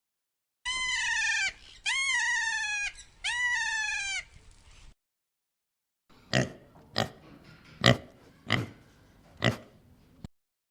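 An animal giving three high-pitched calls of about a second each, each rising and then falling in pitch. After a pause come about six sharp clicks or knocks at uneven intervals.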